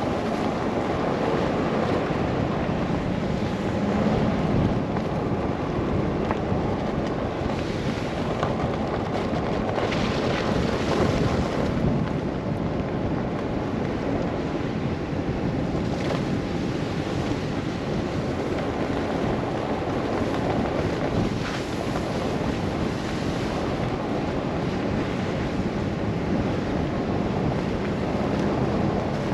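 Steady rushing wind in a snowstorm, heavy in the low range and rising and falling only slightly.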